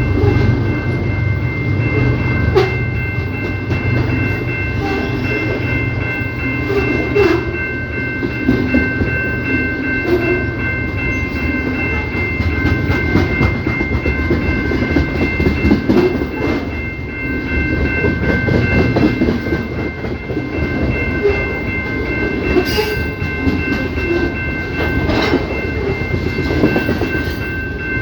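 CPKC train rolling past: a loud, continuous rumble and clatter of wheels over the rails, with frequent knocks. A thin, steady high-pitched tone runs unbroken underneath.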